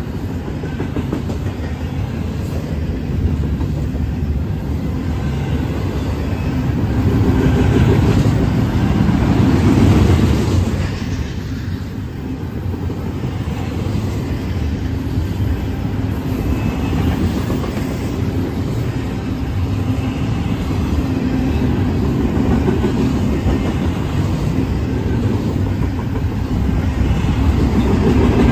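Double-stack intermodal freight cars rolling past at speed: a steady low rumble of steel wheels on the rails, swelling about eight to ten seconds in and again near the end.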